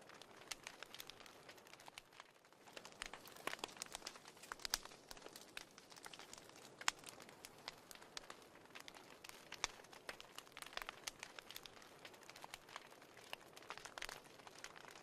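Wood fire crackling in a fireplace: faint, irregular pops and snaps over a soft hiss.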